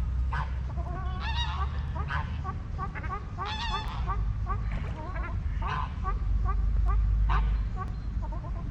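A flock of waterfowl calling: many short, pitched calls from several birds overlapping and repeating, over a steady low rumble.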